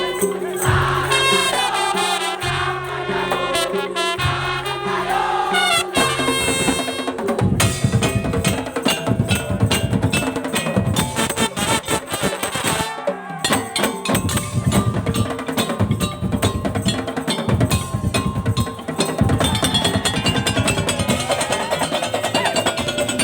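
Madurese daul (tongtong) ensemble playing. A melody rides over held low notes, then from about seven seconds in dense, driving drum and percussion strokes take over.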